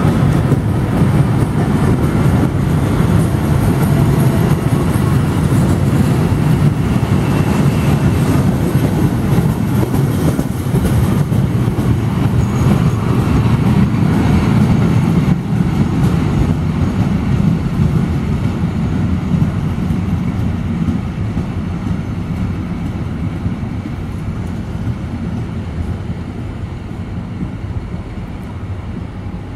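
Locomotive-hauled passenger train rolling past along the platform: a loud, steady rumble of the coaches' wheels on the rails that slowly fades away in the second half as the last coach recedes.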